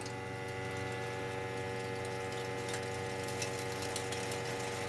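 Lochinvar gas boiler running just after start-up: a steady hum made of several even tones over a soft rushing noise.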